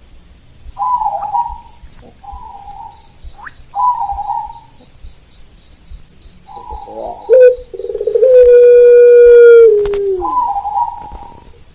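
Zebra dove (perkutut) cooing in three short phrases, then a rooster crowing, one loud long crow of about two seconds that drops in pitch at the end. A faint steady high-pitched trill runs underneath.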